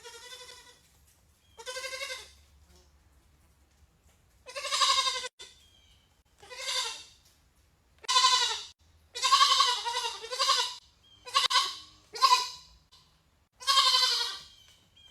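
A goat bleating loudly again and again: about ten separate pitched calls, each half a second to a second long, with short quiet gaps between them.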